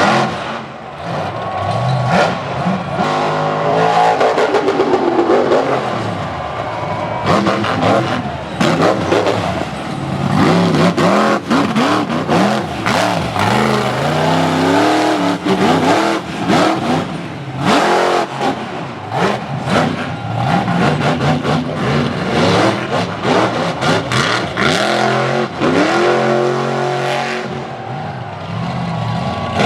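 Monster truck engine revving hard through a freestyle run, its pitch climbing and dropping again and again as the throttle is worked, with many sharp bangs and cracks.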